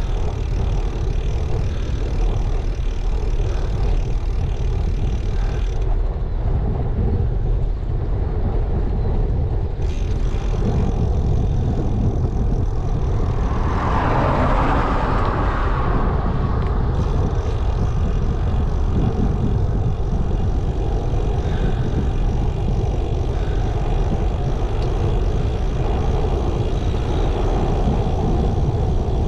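Steady wind rumble on a GoPro's microphone while cycling. A louder rushing swell about fourteen seconds in is typical of a vehicle passing.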